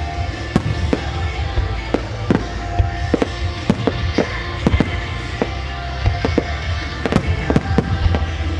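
Starmine fireworks display: shells bursting in a rapid, irregular series of sharp bangs over a steady low rumble, with music playing alongside.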